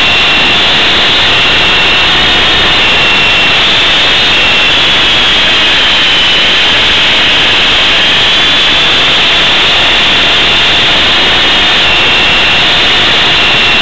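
Esky Big Lama coaxial RC helicopter flying on its two brushless motors. A steady, loud, high whine sits over a rushing rotor noise, and its pitch wavers up and down a little.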